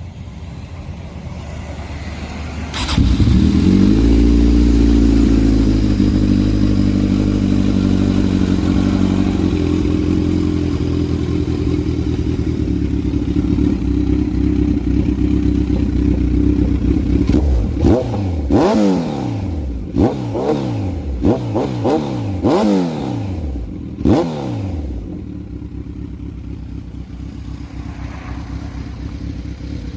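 Kawasaki Z1000 inline-four motorcycle engine breathing through an SC Project full exhaust system: it starts about three seconds in and idles high, the idle easing down, then gets about seven quick throttle blips, each revving up and dropping straight back, before settling to idle again.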